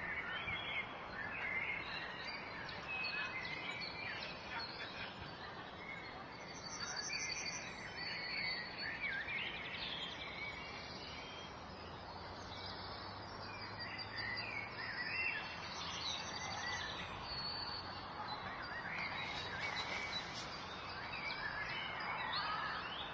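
Many birds chirping and singing, a dense chorus of short calls over a steady hiss.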